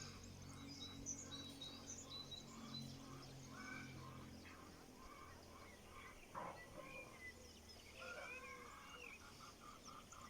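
Chickens clucking faintly in a run of short repeated calls, with small birds chirping higher up. A low steady hum underneath fades out partway through.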